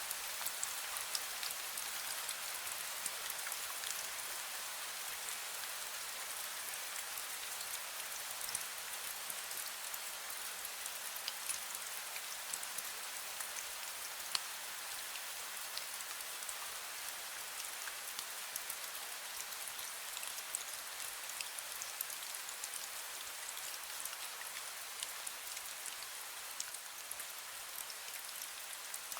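Fine drizzle falling steadily: an even hiss of rain with many small scattered drop ticks.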